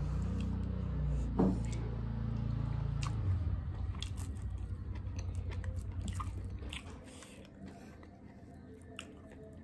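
Close-up eating sounds: chewing and small wet mouth clicks while food is picked up by hand from a bowl of curry. Underneath is a low droning hum, the loudest sound, which fades away about seven seconds in.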